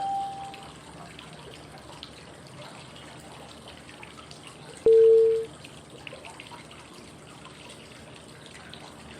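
Steady flowing-water white noise with a short beep as it begins and a louder, lower beep about five seconds in. The beeps are cue tones marking each five-second step of 555 breathing: inhale, hold, exhale.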